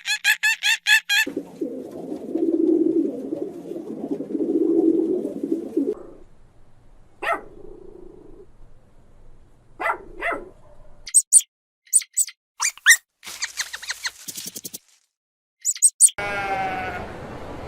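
A sequence of different animal and bird calls cut one after another: a quick run of high calls at the start, a low steady call for about five seconds, then scattered short high chirps and a rapid chatter, and a new falling call near the end.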